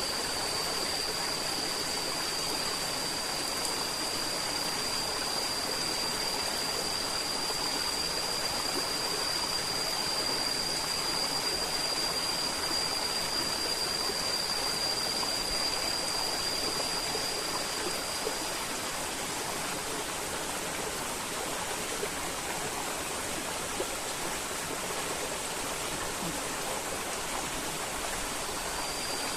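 River water flowing in a steady, even rush. A steady high-pitched whine runs over it, stops about two-thirds of the way through, and comes back at the very end.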